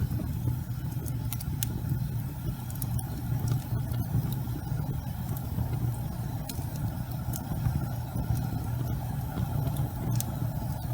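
Wood fire burning in a fireplace: a low steady roar with scattered sharp crackles and pops at irregular moments.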